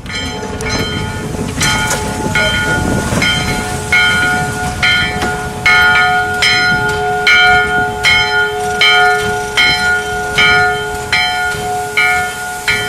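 Steam locomotive's bell ringing in a steady run of strokes, about one to two a second, its tone hanging on between strikes over a low rumble.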